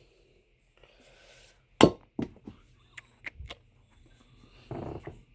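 Hard plastic shop-vacuum parts knocking and clicking as they are handled: one sharp, loud click about two seconds in, then a few lighter clicks and taps, and a soft rustle near the end.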